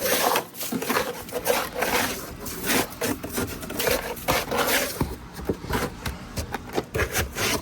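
Repeated rough scraping strokes of a hand tool chipping and scraping packed sleet and ice off a hard surface, several strokes a second at an uneven pace.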